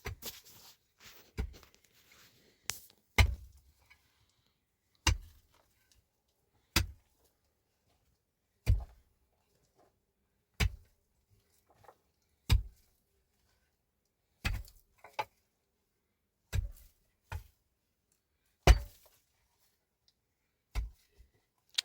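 Slow, regular heavy blows, one about every two seconds, each a sharp knock with a dull thud beneath it. A few quicker, lighter knocks come in the first few seconds.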